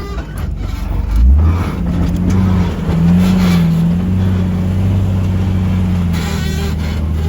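Off-road vehicle engine running at low revs as it crawls over a trail obstacle, heard from inside the cab, with a brief low surge about a second in.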